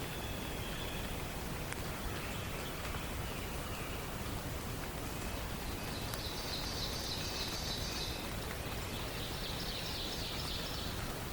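A songbird giving two high, fast trills, each about two seconds long, starting about six and nine seconds in, over a steady hiss; fainter high bird notes sound earlier.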